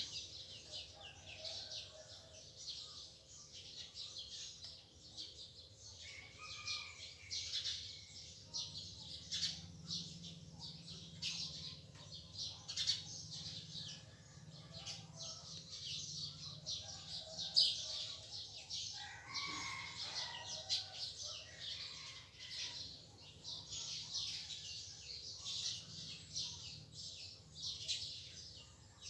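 A flock of small birds chirping continuously, a dense chorus of short, high chirps, with a few lower calls mixed in.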